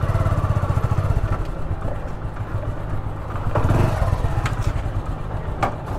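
Motorcycle engine running at low speed with a steady low putter as the bike rolls in to park, swelling briefly a little past the middle, with a couple of short clicks near the end.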